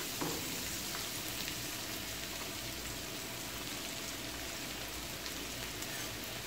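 Chicken wings frying in hot oil alongside chopped garlic sizzling in melted butter: a steady fine crackle.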